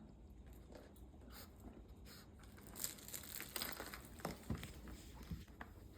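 Shih Tzu puppy rummaging in a toy basket: faint scattered rustling, crinkling and light clicks as toys are pushed about, a little busier about three seconds in.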